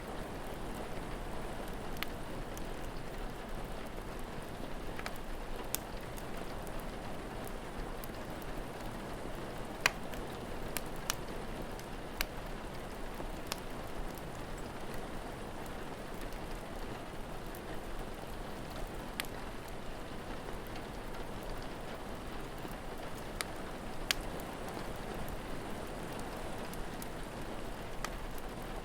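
Steady rain falling, with scattered sharp crackles and pops from a wood fire; a louder pop about ten seconds in and another near the end.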